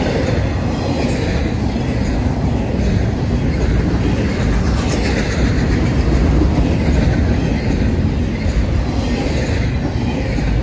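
Freight train rolling past: a loud, steady rumble of wheels on rail.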